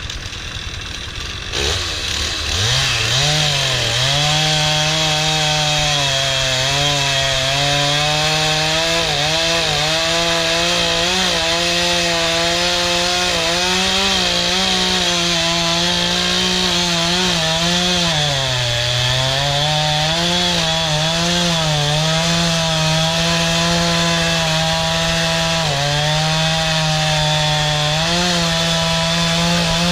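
Gas chainsaw rising from a low idle to full throttle about two seconds in, then cutting through a log, its pitch sagging and recovering as the chain bites, with a deeper dip near the middle.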